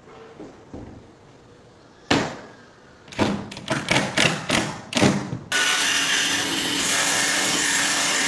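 Woodworking on wood: one sharp knock, then about seven quick rhythmic strokes like hand sawing or rasping, then a power tool starting up and running steadily.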